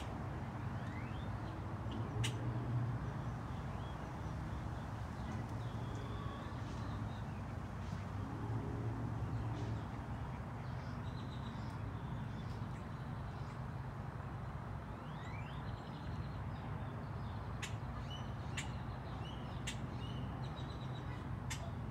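Songbirds chirping over a steady low rumble of outdoor background noise, with a quick run of short, sharp chirps near the end.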